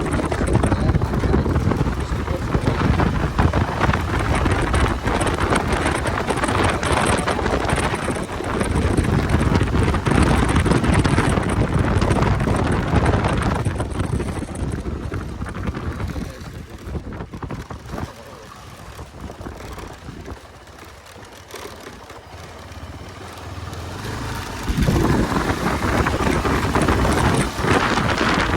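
Wind buffeting the microphone over a running vehicle. The noise dies down for several seconds after the middle, then jumps back up suddenly.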